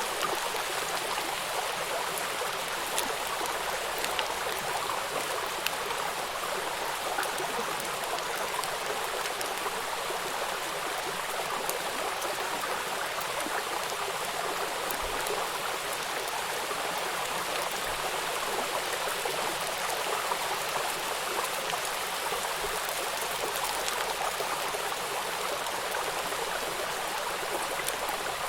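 Small river waterfall: water rushing and splashing over rocks in a steady, even stream, with a few fine droplet ticks on top.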